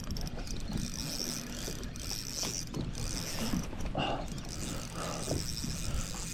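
Fishing reel being cranked steadily as a hooked bass is reeled in, its gears making a steady mechanical whir.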